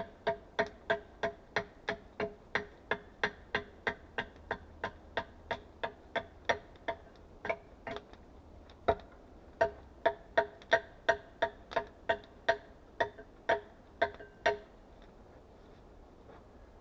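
Hard knocks of a tool striking wood in a fast, even rhythm, about three a second, each with a short hollow ring. The rhythm breaks off briefly about eight seconds in, then resumes, and stops a couple of seconds before the end.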